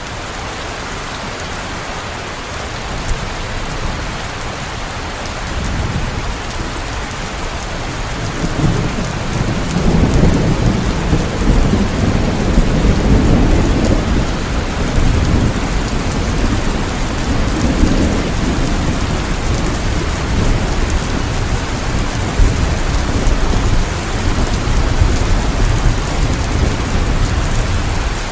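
Rain falling steadily, with low rolling thunder that swells in about a third of the way through and rumbles on.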